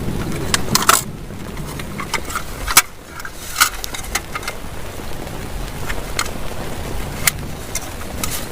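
Heavy rain falling steadily, with many irregular sharp taps of large drops striking close by.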